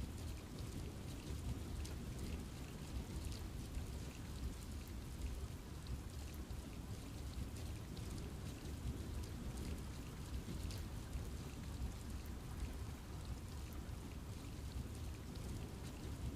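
Steady rain falling in a forest, a continuous low rush with many individual drops pattering on leaves.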